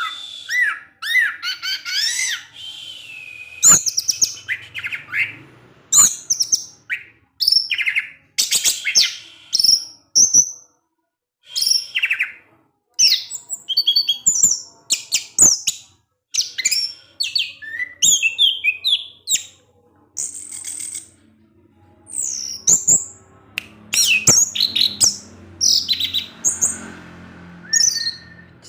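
Orange-headed thrush (anis merah) singing a long run of short, quick-changing chirping and twittering phrases with brief pauses between them: the fine, high 'ngecis' chatter of a bird in full, nonstop song ('teler').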